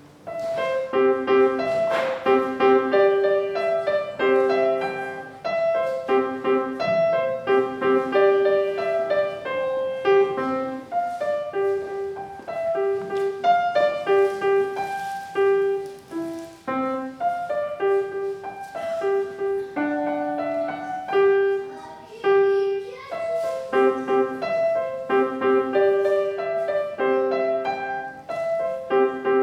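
Piano playing a simple recital piece, note by note with short pauses between phrases, starting just after the opening moment.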